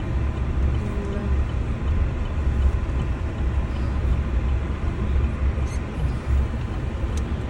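Steady low rumble of a motor vehicle running, with no clear changes.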